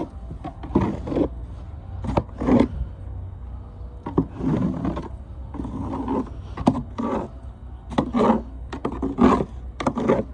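Snow shovel scraping and pushing heavy, wet snow, about a dozen rough strokes in irregular succession over a steady low rumble.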